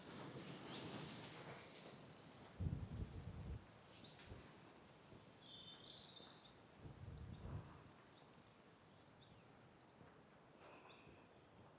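Faint distant birdsong outdoors: runs of quick, high repeated notes, with two brief low rumbles about three and seven seconds in.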